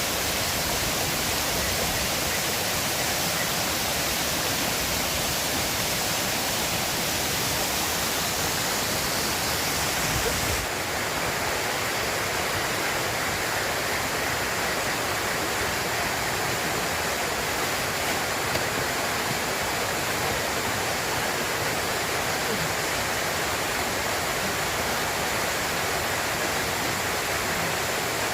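River water rushing in a steady wash of noise, its high hiss dropping a little about ten seconds in.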